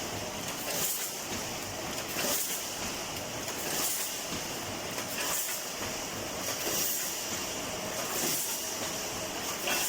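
Automatic wire mesh welding machine running, its weld cycle making a short sharp stroke about every three-quarters of a second over a steady mechanical din.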